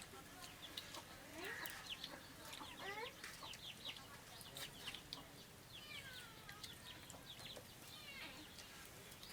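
Faint bird calls: many short chirping and clucking calls, scattered irregularly, with a few faint clicks among them.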